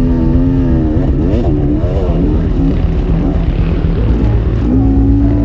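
Enduro motorcycle engine running under constantly changing throttle, its pitch rising and falling again and again, then holding steadier near the end.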